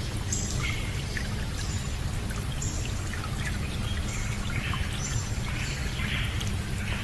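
Running water pouring and trickling steadily, with bird calls and chirps recurring about once a second over it.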